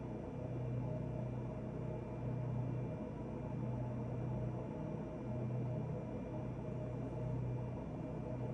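Steady low mechanical hum with a faint, thin high-pitched whine above it.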